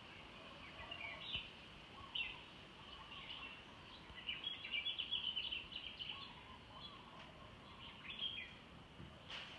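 Small birds chirping in short calls, with a quick, dense run of chirps a few seconds in and softer warbling underneath, over a steady low background hiss.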